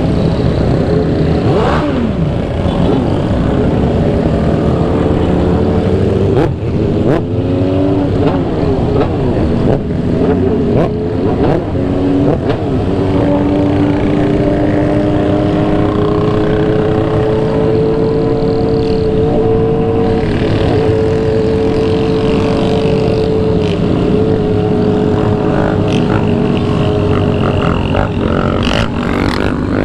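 Motorcycle engine running on the move. Its pitch rises and falls with a few changes of speed, then holds steady for a long stretch of cruising, under a constant rush of wind on the microphone.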